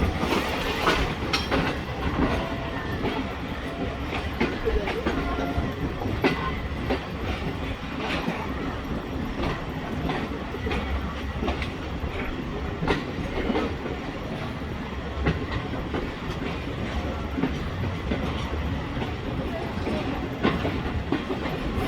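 Train cars rolling along the track, their wheels clacking over the rail joints in a steady run of clicks over a continuous rumble.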